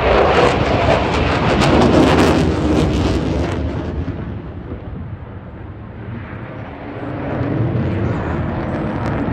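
Eurofighter Typhoon's twin EJ200 turbofans during a display pass: loud crackling jet noise that eases off about four seconds in, then builds again near the end.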